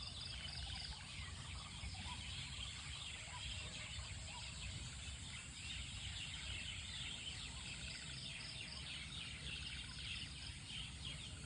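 Many birds chirping and calling at once in a dense, continuous chorus of short, quick notes, over a steady low rumble.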